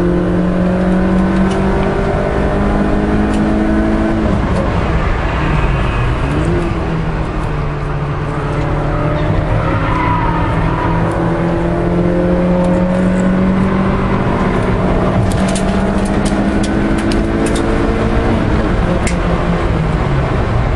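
Peugeot 306 S16's four-cylinder engine heard from inside the cabin at track speed. The pitch climbs slowly, drops suddenly about four seconds in as at a gear change, then climbs steadily for a long pull before falling near the end. A scatter of light clicks sounds toward the end.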